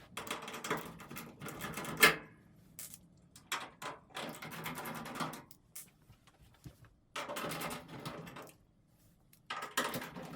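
Power driver backing out the four bolts that hold a dryer drum: four separate bursts of motor-driven spinning, each lasting a second or two, with a sharp click about two seconds in.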